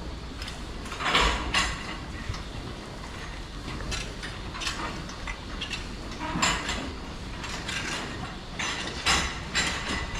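Irregular metallic clanks and rattles, loudest about a second in and again near the end, over a steady low hum.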